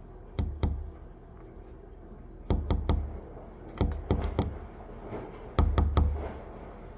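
Sharp knocks in short clusters of two to four, about every second and a half, each with a dull low thud, over a low steady hum.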